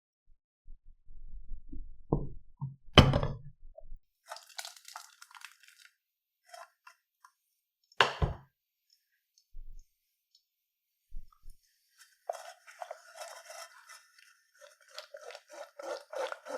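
Close-up handling sounds: a sharp knock about three seconds in and another about eight seconds in, with crisp crinkly rustling and small clicks between them and toward the end.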